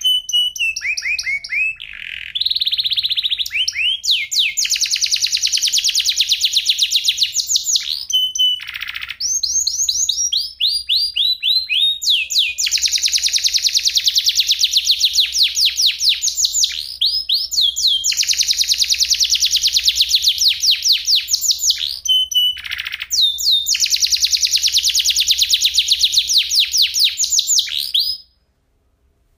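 Domestic canary singing long rolls: rapid runs of repeated high notes that sweep up and down in pitch, phrase after phrase with short pauses between them. The song stops near the end.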